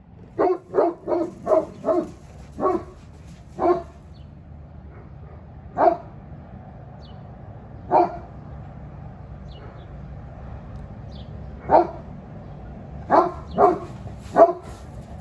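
Great Pyrenees barking to chase off birds: a quick run of about seven barks, then single barks a couple of seconds apart, then a few more in quick succession near the end.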